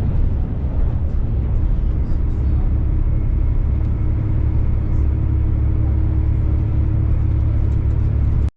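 Steady low rumble of a diesel train running, heard from inside the carriage, with faint ticks and a low hum over it. The sound cuts out for an instant near the end.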